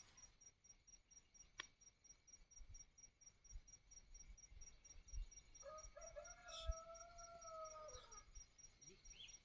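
Faint chirping of crickets, a steady fast high pulsing. About six seconds in, a distant animal gives one long call lasting a couple of seconds, holding its pitch and then dropping at the end.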